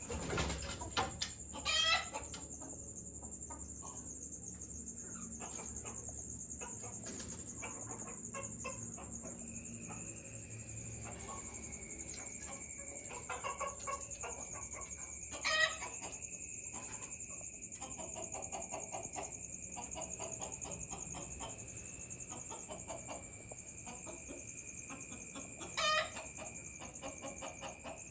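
Lovebirds chirping continually, with loud shrill calls near the start, about halfway through and near the end, over a steady high-pitched whine.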